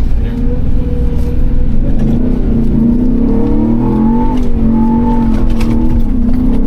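Gen 1 Ford Raptor's V8 engine revving up and down repeatedly as the truck is driven hard on a dirt track, over a steady low rumble.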